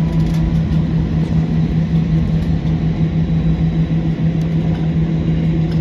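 Airbus A320 airliner noise: a steady low rumble with a constant low hum that holds even, without rising or falling.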